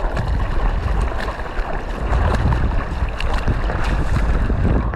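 Strong wind buffeting the action camera's microphone in a low rumble, over sea water splashing and lapping around it.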